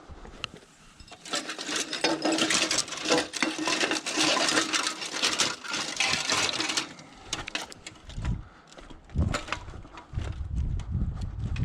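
Scrap metal being handled and loaded, a dense rattling and scraping clatter for about five seconds, followed by scattered knocks and low thuds.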